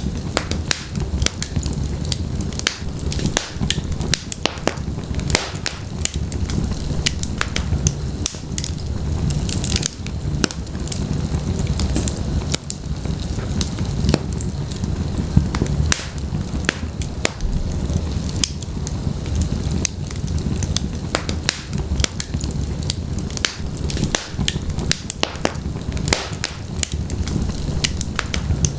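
Wood logs burning in a fireplace: a steady low rumble of flame with frequent sharp, irregular crackles and pops from the burning wood.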